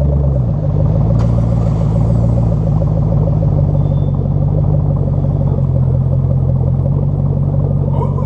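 Ford Mustang 4.6-litre V8 exhaust running with a steady low note, which shifts in pitch about half a second in.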